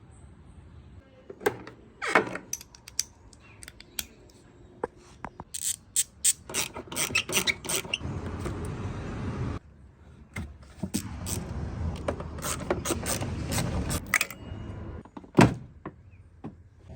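Irregular clicks, knocks and clatter of tools and car parts being handled, with stretches of steady noise between them.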